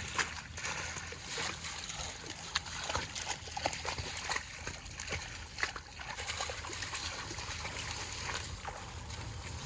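Water splashing and sloshing in many small, irregular splashes, over a steady low rumble.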